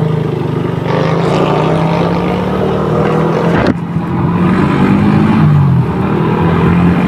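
Suzuki motorcycle engine running under way, its pitch rising and falling with throttle and gear changes. There is a brief sharp break a little past halfway.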